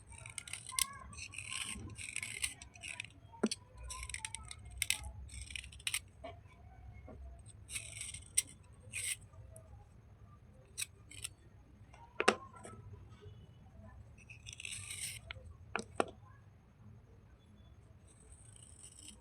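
Wet slate bars and chips being crushed and rubbed by hand: a string of short, crunchy scraping bursts with a few sharp snaps between them. It goes quieter near the end.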